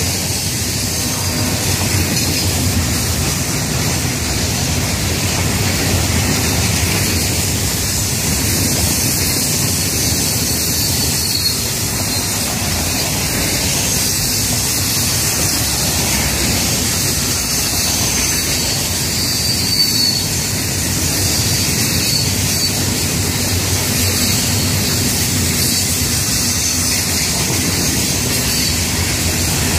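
Florida East Coast Railway freight train's open hopper cars rolling past close by: a steady rumble of wheels on rail, with a faint high wheel squeal now and then.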